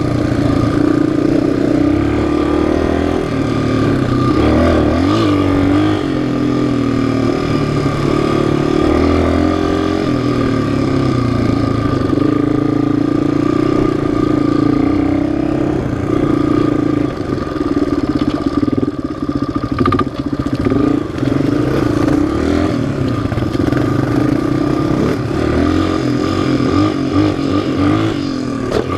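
A loud single-cylinder four-stroke off-road engine running under constantly changing throttle, its pitch rising and falling as it revs up and backs off. Over the second half the revs and loudness dip and pick up more often.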